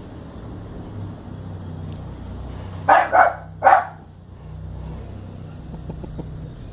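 An animal gives three short, loud calls in quick succession about three seconds in, over a steady low hum.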